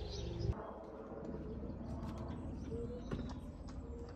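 A bird cooing in a few short low notes over a steady low rumble, with scattered faint clicks.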